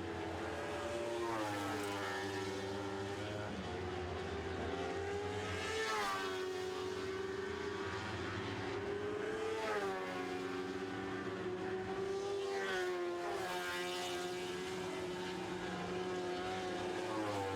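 Lightning Sprint cars' high-revving motorcycle engines racing around a dirt oval. Their pitch climbs and drops again every few seconds as the cars power down the straights and lift for the turns, with several engines overlapping.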